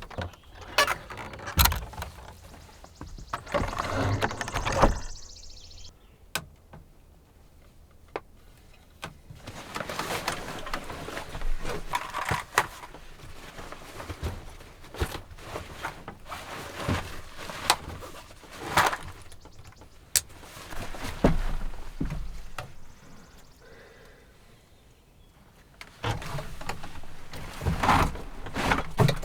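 Irregular knocks, clunks and rustling, as of objects being handled and set down.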